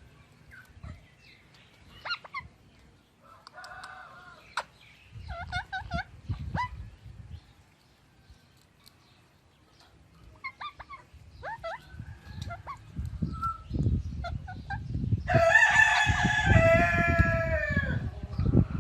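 Bird calls: scattered short chirps and squawks, then near the end one loud crowing call, like a rooster's, lasting about three seconds over a low rumble.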